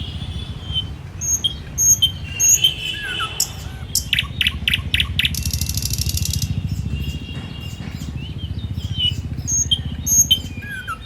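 Several birds chirping and calling in short, repeated notes, with a quick run of clicking calls and a brief hissy buzz near the middle. A steady low rumble runs underneath.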